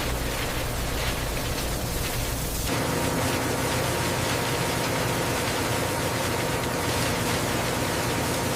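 Steady hissing, humming factory machine noise with a few steady tones in it, changing abruptly to a different machine hum about two and a half seconds in.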